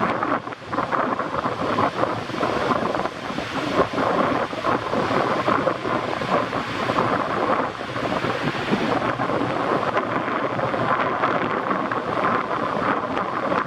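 Typhoon wind and rain, a continuous loud rushing with rapid gusty buffeting on the microphone.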